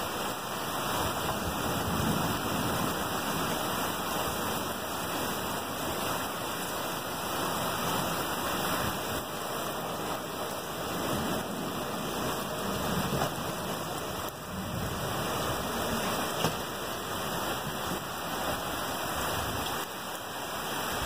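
Heavy storm rain pouring down steadily.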